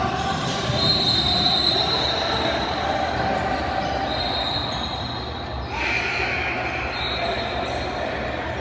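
Basketball shoes squeaking on a hardwood gym floor in several drawn-out, high squeals, about a second in, again around four and six seconds, and near the end, over the general noise of the gym.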